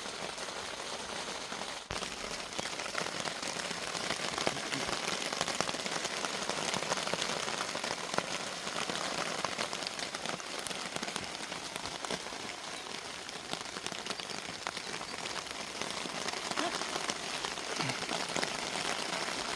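Steady rain falling, with many single drops ticking on a surface close by.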